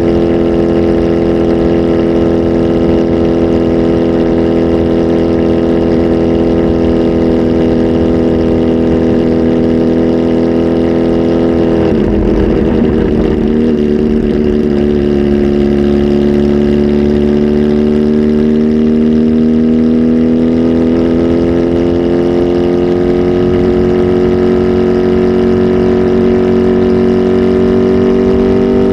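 Kawasaki Z H2 SE's supercharged inline-four engine, flash tuned and fitted with a full exhaust, running at a steady speed. About twelve seconds in the note wavers briefly, then its pitch creeps slowly upward.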